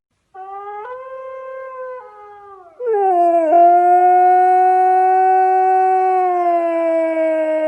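A dog howling: a shorter, quieter howl first, then from about three seconds in a long, louder howl that slowly falls in pitch.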